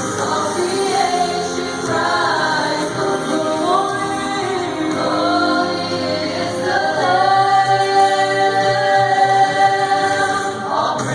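A choir singing, several voices moving together in harmony, then holding a long chord through the second half.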